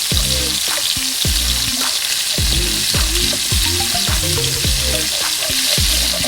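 Garlic and onion sizzling in hot cooking oil in a pot as they are stirred, a steady hiss.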